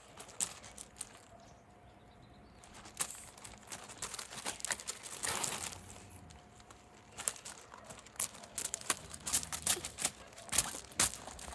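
Irregular clicks, knocks and crinkling rustles of things being handled, with a brief rush of noise about five seconds in.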